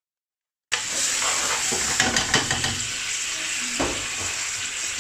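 After a moment of silence, sizzling starts suddenly under a second in: sliced onions and green pepper frying in oil with a little added water in an aluminium pan. A metal spoon stirs and scrapes through them, knocking against the pan a few times.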